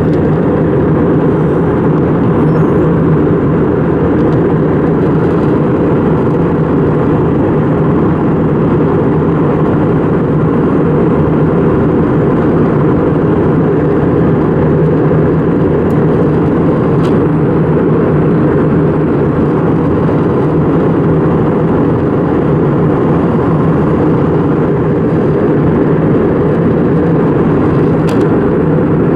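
Steady cabin noise of an Airbus A320 in flight: an even, low-pitched rush of engine and airflow noise that does not change.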